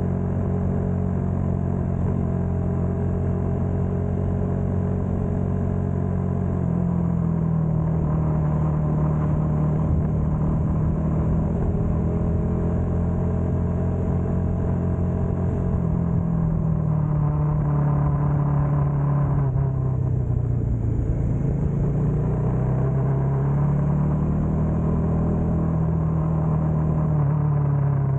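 Bajaj Dominar 400's single-cylinder engine running on the road at cruising speed, its note shifting with the throttle: it rises a little about a quarter of the way in, sags in the second half, climbs again and falls once more near the end.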